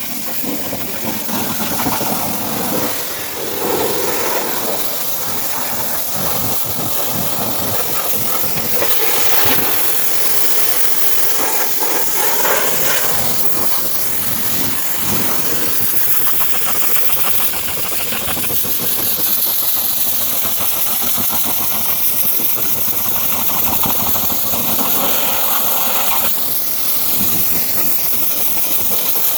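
Steady loud hiss of a cleaning jet spraying, with a motor running underneath.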